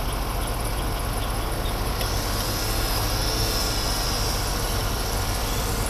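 A 2004 Chevy Suburban's 5.3-litre V8 idling steadily under the open hood, with a faint high whine coming in about two seconds in. The truck is only charging about 13 volts, and its original alternator is suspected of failing.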